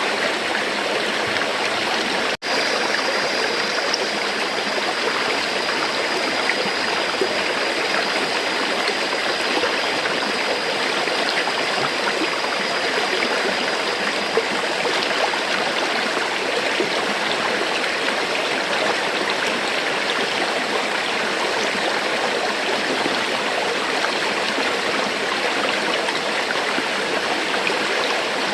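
River water flowing steadily, a dense even rush. It cuts out for an instant about two seconds in, then carries on.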